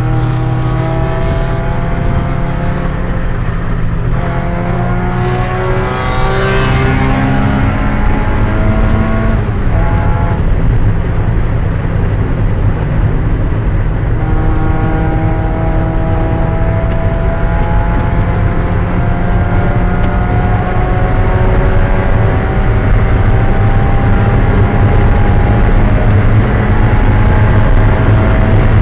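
1995 Mazda Miata's 1.8-litre four-cylinder engine running hard at race pace, the revs climbing, falling back twice in the first ten seconds, then rising slowly through the rest. A brief hiss comes about six seconds in.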